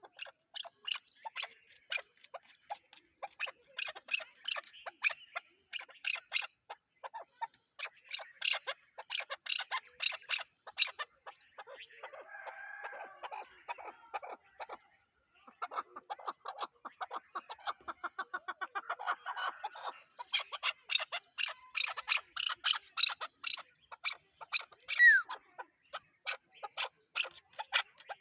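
Chukar partridge calling: long runs of rapid, sharp chuck notes, broken by a few short pauses.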